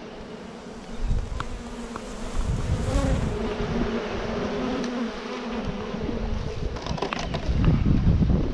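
Honey bees buzzing in numbers around an opened hive: a steady drone. Irregular low rumbling on the microphone grows loudest near the end.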